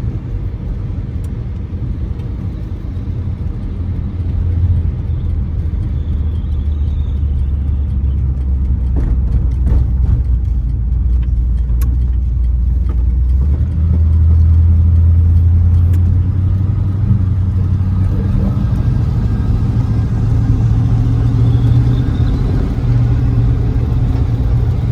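A Ford Thunderbird's Y-block V8 running under way, with road noise: a steady low engine drone that slowly grows louder and climbs higher in pitch about two thirds of the way through as the car gathers speed.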